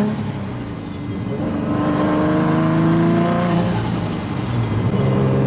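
Turbocharged Nissan Z's V6 pulling under acceleration: the engine note climbs steadily for a few seconds, drops at an upshift past halfway, then holds steady.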